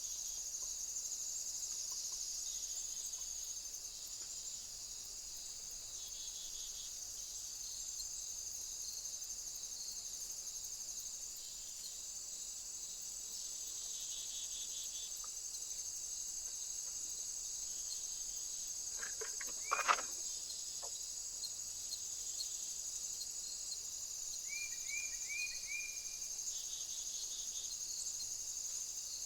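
Steady high-pitched chorus of insects. It is joined by a brief louder sound about two-thirds of the way in, and near the end by a small bird's four quick chirps.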